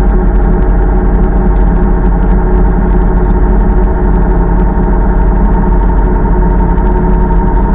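1968 Minneapolis-Moline G900 tractor's propane (LP gas) engine running steadily at a constant speed, with a steady drone and faint ticking over it.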